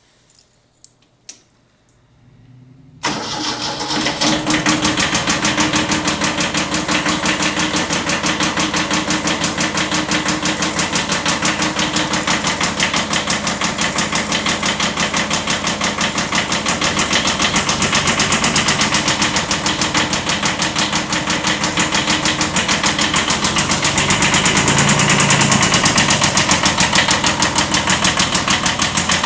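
Kubota B7100 tractor's three-cylinder diesel engine starting. After a couple of clicks and a brief crank it catches about three seconds in, then runs steadily with a fast, even pulsing. The owner describes this as a slight rod knock.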